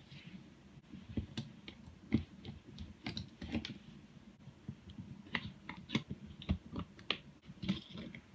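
Irregular light clicks and taps of small plastic and metal parts being handled while a Tokyo Marui Type 89 electric airsoft rifle's mechbox is worked on.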